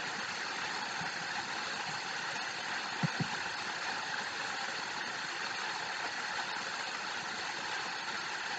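Steady rushing noise, even and unbroken, with two faint knocks about three seconds in.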